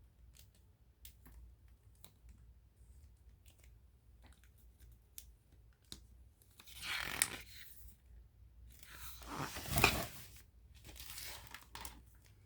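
Paper rustling and swishing as the pages of a picture book are handled and turned, in three passes in the second half after a few faint ticks.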